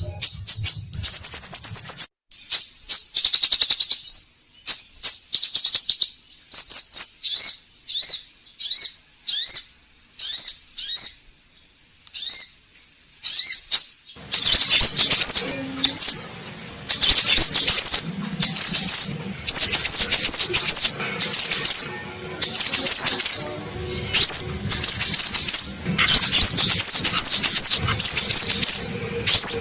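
Scarlet minivet (sepah raja) singing: short phrases of quick, high, sweeping whistled chirps repeated about once a second. About halfway through, a low hum and a noisier background come in beneath the song.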